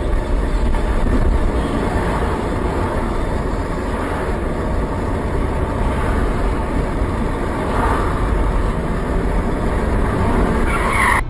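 Steady rumble of a moving vehicle's engine and road noise, with a brief higher-pitched sound near the end before it cuts off.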